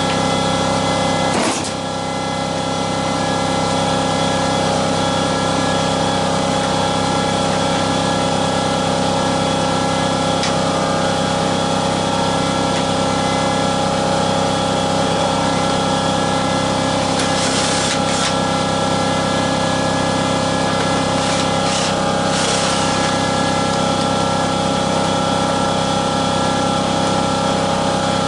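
A motor running with a steady hum that dips briefly about a second and a half in, with a few short handling noises near the end.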